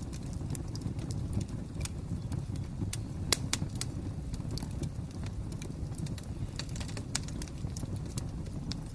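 Wood fire crackling: irregular sharp pops and snaps over a steady low rumble of the flames, with one louder pop about three seconds in.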